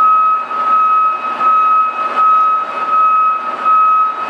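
Taylor 30,000 lb lift truck's six-cylinder Cummins diesel running as the forks are raised, with a steady high-pitched whine held over the engine noise.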